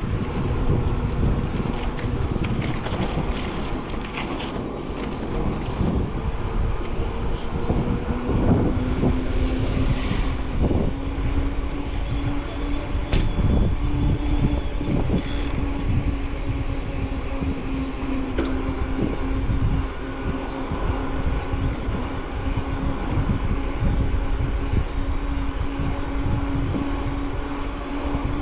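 Wind buffeting a bike-mounted camera's microphone over tyre rumble while riding, with a steady low hum running underneath that rises slightly in pitch about eight seconds in.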